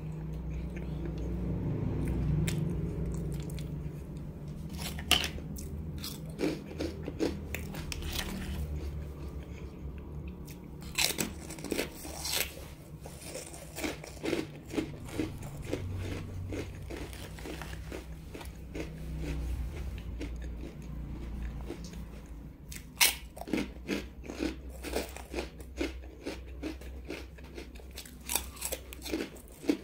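Close-miked biting and chewing of crisp rice crackers. A few sharp snapping bites, the loudest about a third of the way in and again past the middle, are each followed by runs of quick crunching chews.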